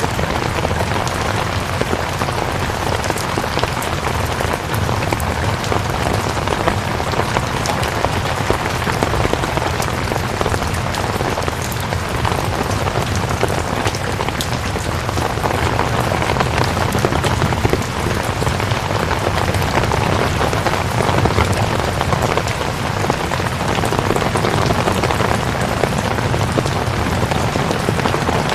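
Steady rain: a dense, even hiss of falling rain with many small individual drop ticks, keeping the same level throughout.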